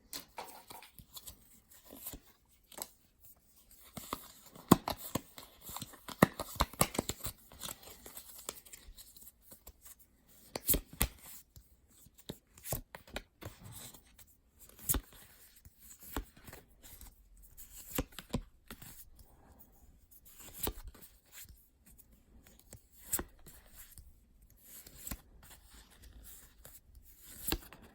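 Pokémon trading card booster packs being torn open, with irregular bursts of tearing and crinkling wrapper and the rustle and flicks of cards being handled.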